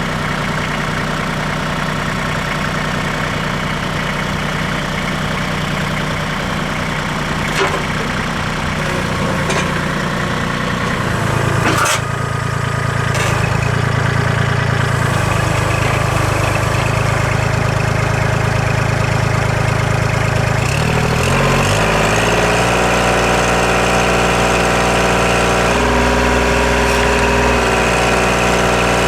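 Compact tractor's three-cylinder diesel engine running steadily as the front loader works the test load. There is a sharp knock about twelve seconds in, after which the engine sounds heavier. Its pitch shifts again a little past twenty seconds.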